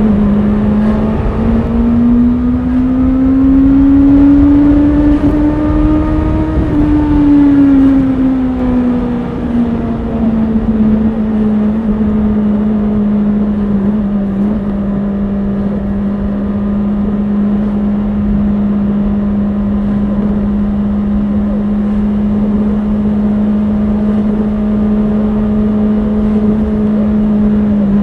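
Honda CBR650R's inline-four engine running at held revs. The note rises smoothly a few seconds in, eases back down, then holds steady for the rest of the stretch.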